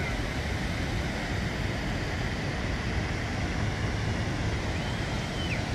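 Steady, even rush of water from Ban Gioc waterfall, with most of its weight low down.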